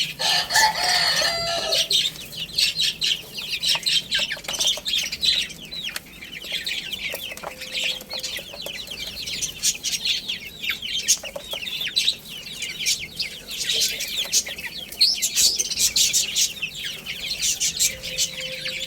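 A group of baby chicks peeping continuously: many short, high, falling peeps overlapping throughout. A lower, longer call sounds in the first two seconds.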